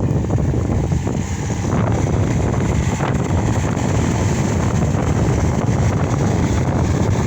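Case SR200 skid steer's diesel engine running steadily under work.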